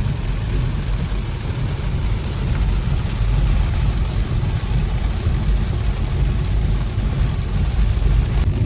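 Steady road and engine noise from inside a moving car: a constant low rumble with a fainter hiss over it.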